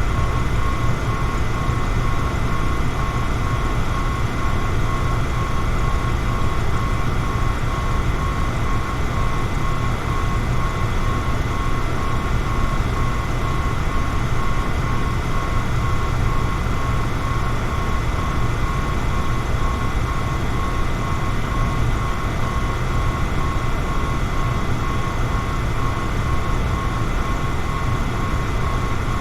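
Electric fan running steadily: an even whooshing hum, heaviest in the low end, with a faint steady whine from the motor.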